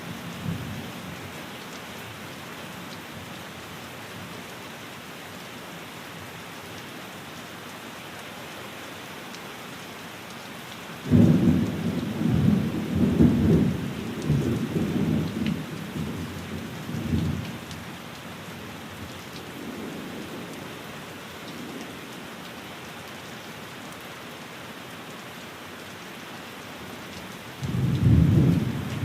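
Steady rain falling, with thunder breaking out suddenly about a third of the way in and rumbling low for several seconds before fading, and a second roll of thunder starting near the end.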